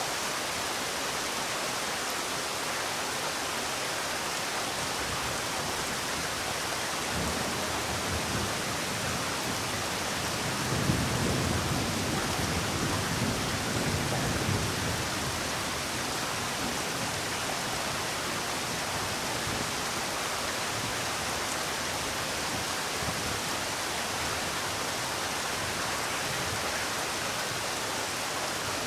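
Steady rain falling, an even hiss. About ten seconds in, a low rumble of thunder swells for some four seconds, then fades back under the rain.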